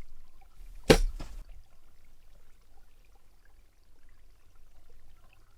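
A single sharp hit about a second in, followed by a short hissing tail and a second, fainter hit, then a faint low background hum.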